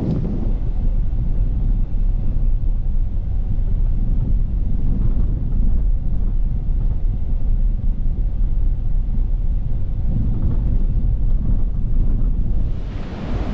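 A steady deep rumble, with a brighter hiss rising near the end.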